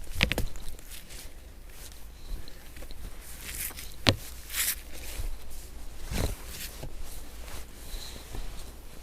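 Snow being swept off a car in soft, powdery fresh snow: a few brief brushing swishes and scattered knocks, the sharpest about four seconds in, with footsteps in the snow.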